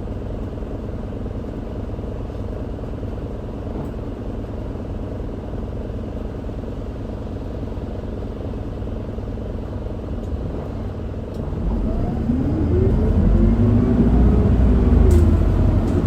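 Isuzu Erga QDG-LV290N1 city bus's four-cylinder diesel heard from inside the cabin: a steady low rumble. About twelve seconds in, the engine pulls harder and gets louder, its pitch rising and then falling back near the end.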